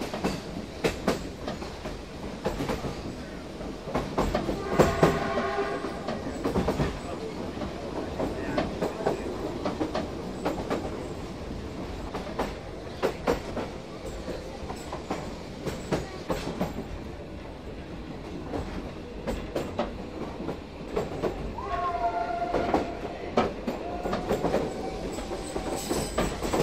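Narrow-gauge train heard from inside a carriage, running steadily with its wheels clicking over the rail joints. The locomotive's hooter sounds once, about five seconds in.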